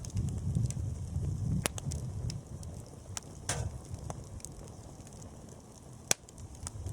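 Wood campfire crackling, with scattered sharp pops, two of them louder, about one and a half seconds in and near the end, over a low rumble that eases about halfway through.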